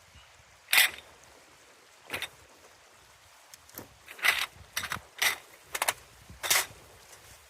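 Short scraping and rustling noises, about eight of them at irregular intervals, over the faint steady rush of a river.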